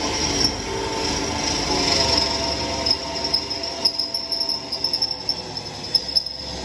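Electric drill running under load while drilling holes, a steady motor whine that eases slightly about three seconds in.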